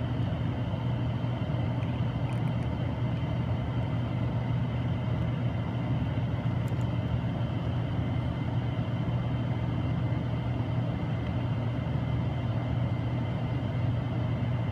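Steady low machine hum, unchanging throughout, with two faint light ticks.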